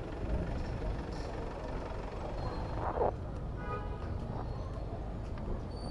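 City road traffic and low wind rumble on the microphone of a moving bicycle, with a short louder burst about three seconds in followed by a brief pitched tone.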